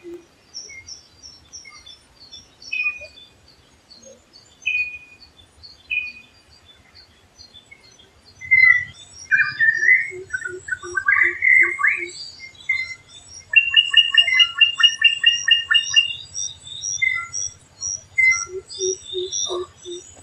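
Several birds calling together in forest: short high whistled notes repeating about once a second, a varied warbled song phrase about halfway through, then a fast trill, and twice a run of quick low pulsed notes.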